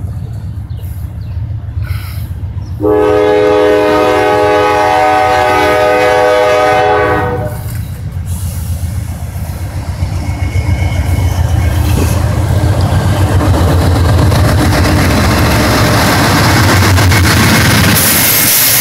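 Norfolk Southern diesel-electric freight locomotive sounding its multi-tone air horn in one long blast, starting about three seconds in and lasting about four and a half seconds. After the horn, the locomotive's engine rumble and the wheels on the rails grow louder as the train rolls past close by, pulling out slowly from a stop.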